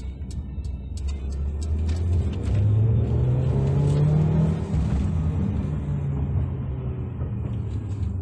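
Mercedes-Benz GLA 200's turbocharged four-cylinder engine pulling the car along, with steady road rumble inside the cabin; the engine note climbs in pitch about two and a half seconds in as the car accelerates, then eases back.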